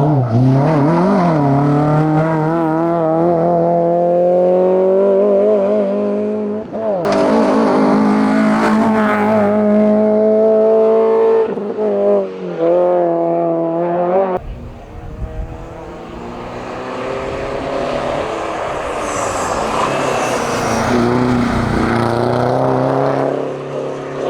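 Hyundai Getz Cup race car accelerating hard, its engine revving up through the gears with upshifts about seven and eleven seconds in. After a sudden cut, a second Hyundai Getz Cup is heard under power, its engine sound swelling then easing as it passes.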